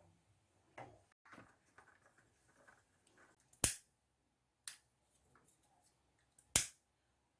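Scattered small clicks and taps, with two sharp, louder clicks, one about halfway through and one near the end.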